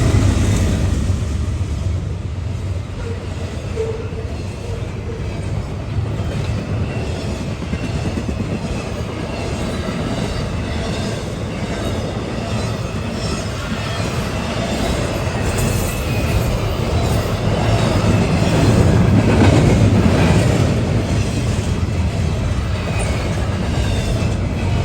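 CSX autorack freight train rolling past: a steady rumble of steel wheels on the rails with clicks over the rail joints and a faint wheel squeal, swelling louder about three-quarters of the way through.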